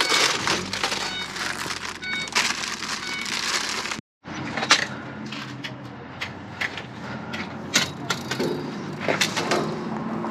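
Rummaging through trash: plastic bags and packaging crinkling, with scattered clicks and knocks of items being moved. There is a cut about four seconds in, after which sharper clatters follow.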